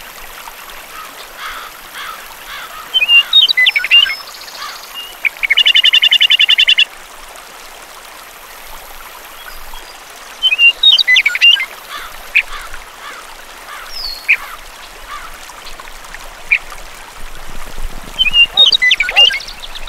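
Birds calling over a faint steady hiss. Clusters of quick, sharp chirps come about every eight seconds, and a rapid trill lasts about a second and a half, early on the second cluster's heels.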